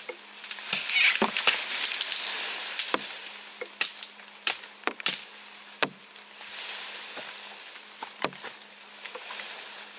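Irregular sharp knocks, about one or two a second, with stretches of scraping, rustling noise, over a faint steady hum.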